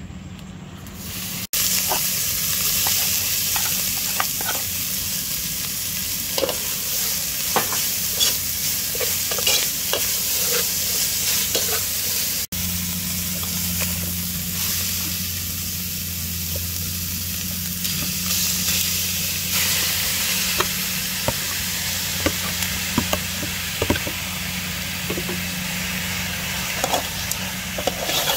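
Food frying in a steel pot, a steady loud sizzle that starts about a second and a half in, with a metal ladle stirring and clicking against the pot now and then; green herb paste is frying first, then pieces of pork.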